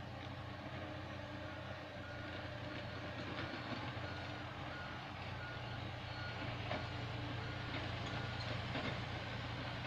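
Heavy diesel machinery running steadily with a low hum, while a backup alarm sounds a repeating high beep from about two seconds in.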